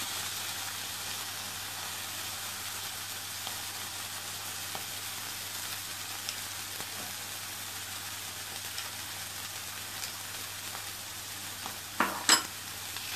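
Carrot halwa (gajar ka halwa) sizzling with a steady hiss in a steel kadai over a gas flame, nearly ready. Two sharp knocks sound near the end.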